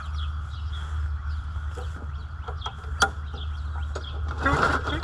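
Lawnmower's recoil starter pulled once near the end, the small engine not catching on its gas-line antifreeze fuel, with a sharp click a little earlier. Chickens cluck and small birds chirp throughout.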